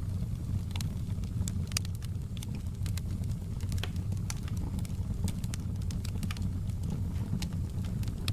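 Wood fire crackling in a stone fireplace: irregular sharp pops and snaps, several a second, over a steady low rumble.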